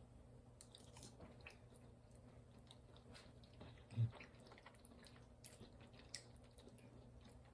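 Faint chewing of food, with scattered small clicks and a soft low thump about four seconds in.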